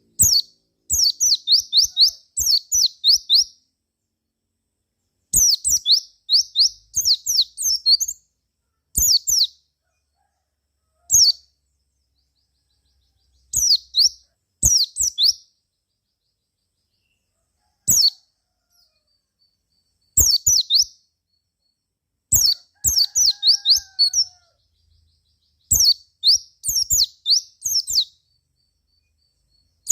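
White-eye (pleci) singing in bursts of rapid, high, sharp chirps, each burst one to three seconds long with short silent gaps between: a lively lure song of the kind used to set other pleci singing.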